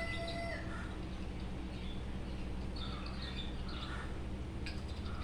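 Faint bird chirps over a steady low hum of room noise, with a light click near the end.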